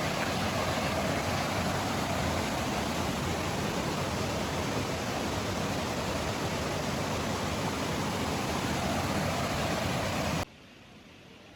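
Steady rushing of a waterfall, cutting off suddenly near the end to a much quieter hiss.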